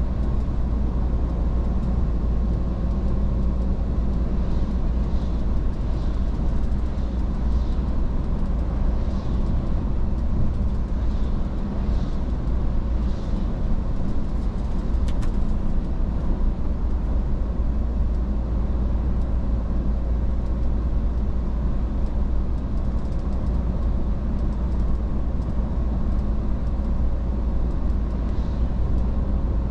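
Iveco S-Way truck on the move: a steady low drone of engine and road noise, with a faint click about halfway through.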